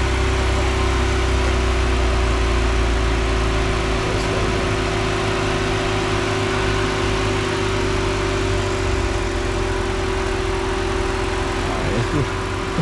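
Ford Edge ST's twin-turbo V6 idling with the hood open while the hot engine's electric radiator cooling fan runs, a steady hum with an even rush of air over it. The deepest part of the hum drops a little about four seconds in.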